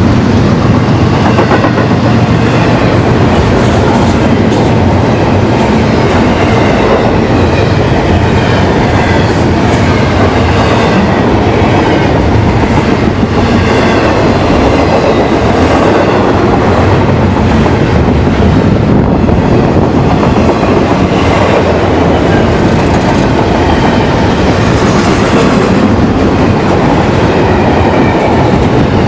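Train cars rolling past at close range, a loud, steady rush of wheels on rail with clickety-clack over the rail joints.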